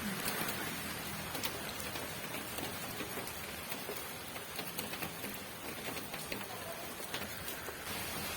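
Steady rain, with many individual drops ticking sharply on a nearby surface.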